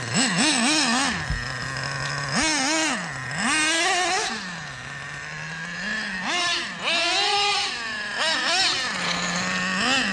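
Nitro engine of a Traxxas RC truck idling and being blipped on the throttle in repeated short revs, its pitch shooting up and falling back each time before settling to a steady idle.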